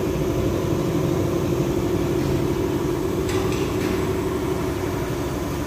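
A steady machine hum with a faint click about three seconds in.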